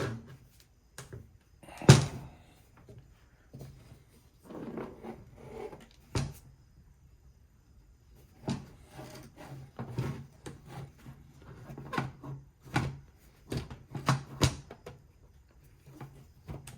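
Irregular clicks and knocks of hammer drill housing parts and small metal pieces being handled and fitted together during reassembly. A sharp knock comes about two seconds in and another around six seconds, then a run of smaller clicks near the end.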